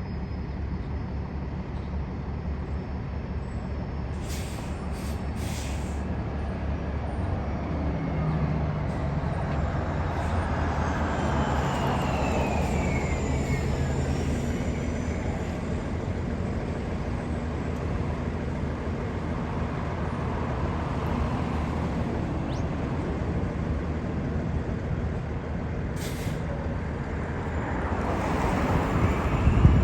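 Jet airliner engines passing overhead: a steady low rumble with a falling whine partway through, growing louder near the end.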